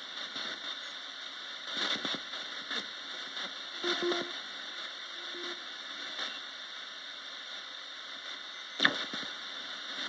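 Roberts radio used as a ghost box, putting out a steady static hiss broken by brief crackling bursts, with a sharp crack near the end.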